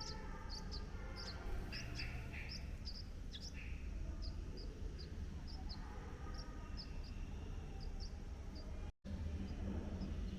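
A bird giving a long run of short, high chirps, about two to three a second, with a few lower calls in the first seconds, over a low background rumble. The sound drops out for a split second near the end.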